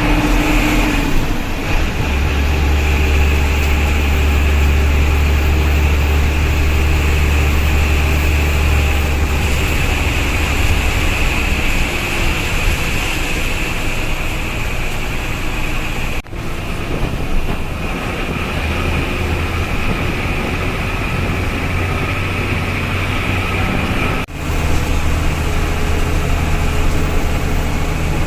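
Tata diesel bus engine running with road noise while the bus drives, a steady low hum. It breaks off abruptly twice, about two-thirds of the way in and again near the end.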